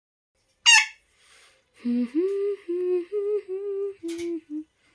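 A plum-headed parakeet gives one short, high-pitched call, then a voice hums a short tune of about seven held notes.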